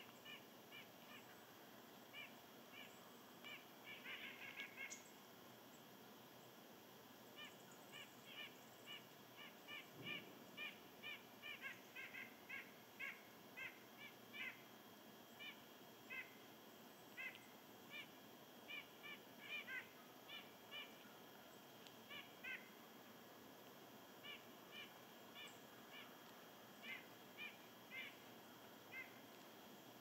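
Faint bird calls: many short call notes repeated at irregular intervals, over a steady low hiss.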